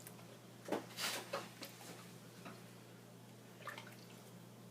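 Cubes of food dropped into a pot of water, a few separate plops and splashes, the biggest about a second in and smaller ones later, over a low steady hum.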